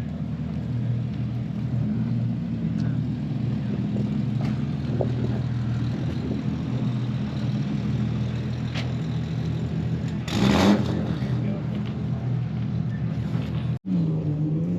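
A car engine running steadily at low revs, with a short loud rush of noise about ten seconds in. After a sudden break near the end, an engine begins to rev up.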